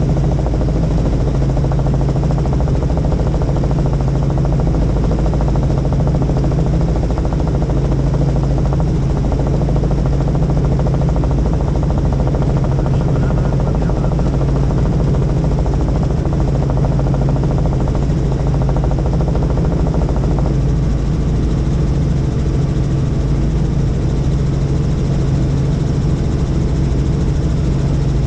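Helicopter engine and rotor noise heard from on board: a loud, steady drone with a strong low hum.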